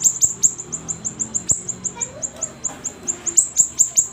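Siri-siri bird singing a rapid run of short, high chirps, each sliding down in pitch, about eight a second without a break.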